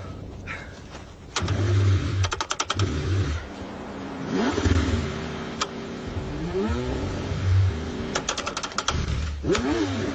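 A car engine being cranked over in the cold, struggling to start, in repeated bursts, with two quick runs of rapid clicking.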